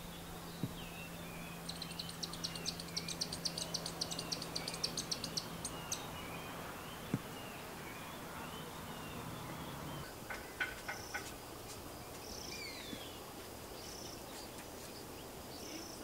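Birds calling: a fast run of high chirps lasting about four seconds, then a few short, high calls spaced apart, over a low steady hum that stops about ten seconds in.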